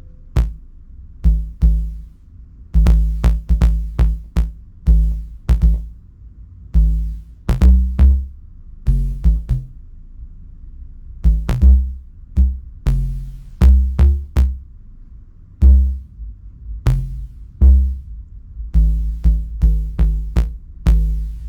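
Elektron Digitakt playing an improvised bass line off the grid: short, deep bass notes at changing pitches in an uneven rhythm, each starting with a sharp click.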